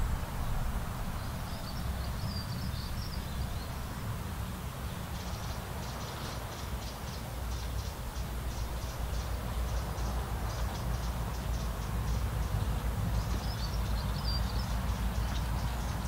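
Small garden birds singing and calling over a steady low outdoor rumble. A short high warbling phrase comes about a second in and again near the end, and a run of quick repeated high notes, two or three a second, fills the middle.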